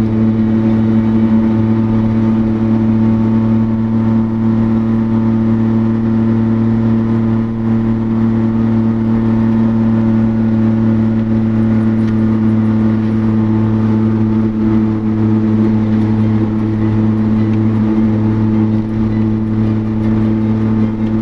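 4x4 overland vehicle's engine running at a steady cruising speed, heard from inside the cab: a constant drone that holds its pitch without revving up or down.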